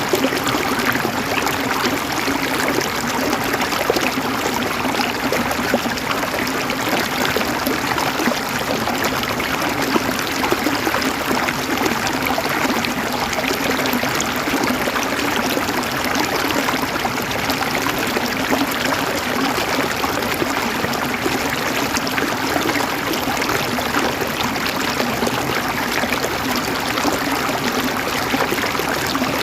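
River water flowing over rocks, a steady rushing and gurgling without pause.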